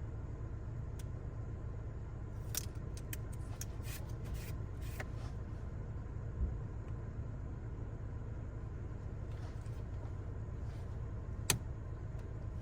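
Small plastic clicks and taps from handling and sticking a magnetic phone holder in place, over a steady low hum. There is a quick run of clicks a few seconds in, a soft thump around the middle, and one sharp click near the end.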